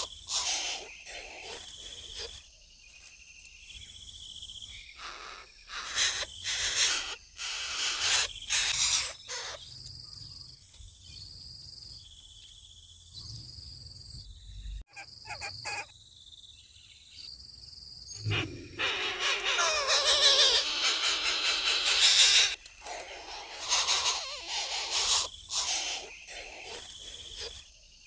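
Bird calls in short harsh bursts about a second apart, with a longer, denser run of calling from about eighteen seconds in.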